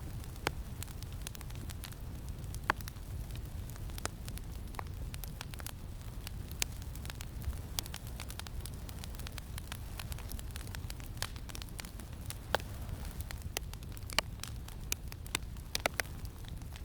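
Campfire crackling: irregular sharp pops and snaps, more frequent near the end, over a steady low rumble of wind.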